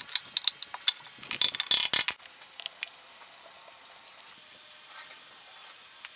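Irregular metallic clicks and clatter of hand tools working on motorcycle parts. The clatter is densest in the first two seconds, then thins to a few faint ticks.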